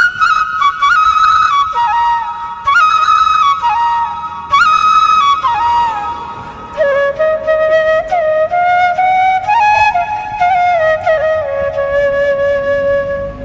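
Solo flute melody. It plays single notes with slides between them, moving from higher notes down to a lower register about halfway through.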